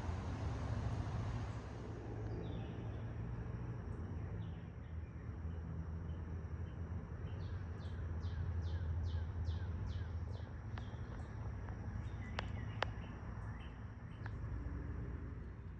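Birds calling outdoors. One bird gives a run of about eight quick, evenly spaced high notes about halfway through, over a steady low rumble, with two sharp clicks near the end.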